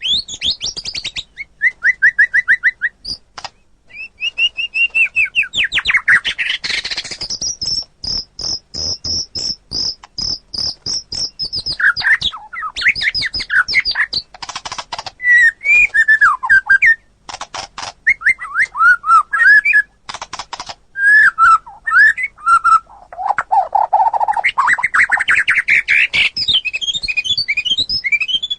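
White-rumped shama (murai batu) singing a loud, varied song: quick slurred whistles, rapid runs of chattering clicks, and a long fast high trill held for several seconds about a third of the way in.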